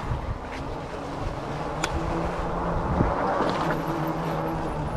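Wind rushing over the microphone and tyre rumble while riding a Rad Rover fat-tire e-bike. A faint steady hum comes in and out, and there is a sharp click about two seconds in.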